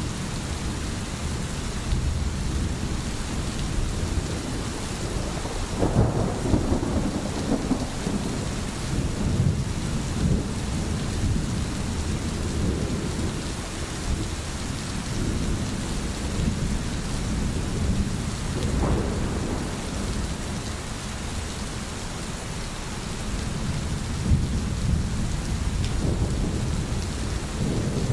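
Steady rain falling, with thunder rumbling low underneath. The thunder swells about six seconds in and again near nineteen seconds.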